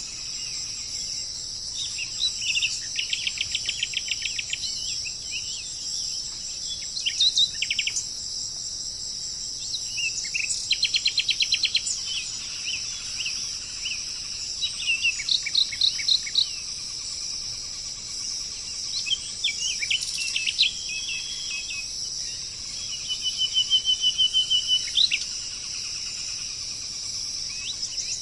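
Birds calling in short bursts of rapid, stuttering chirps and trills every few seconds, over a steady high-pitched drone of insects.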